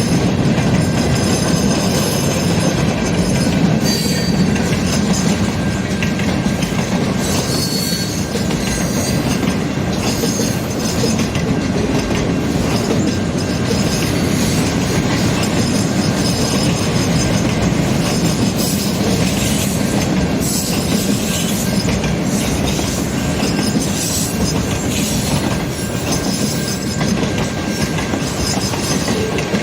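CN mixed-freight train's cars rolling steadily past, wheels running on the rails. Brief high wheel squeals sound about four seconds in and again about eight seconds in.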